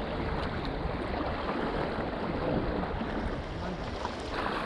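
Steady wind rumble on the microphone over the sound of shallow seawater moving along a rocky shore.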